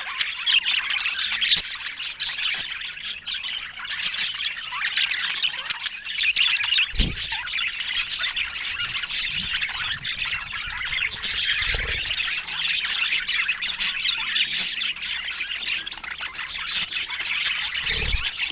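Budgerigars chattering and squawking without a break, a dense run of high chirps and warbles, with a few dull low bumps scattered through it.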